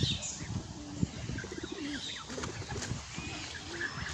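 Pigeons cooing in short low notes about a second in and again a little later, with faint high bird chirps scattered through.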